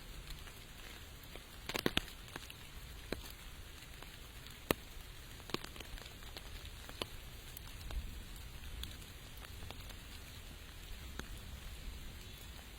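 Steady light rain with scattered individual drops landing close by as sharp ticks, a quick cluster of them about two seconds in.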